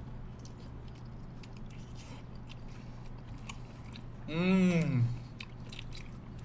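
Close-miked chewing and biting of braised chicken, with many small wet mouth and chopstick clicks. About four seconds in comes a drawn-out vocal exclamation, rising then falling in pitch, lasting under a second.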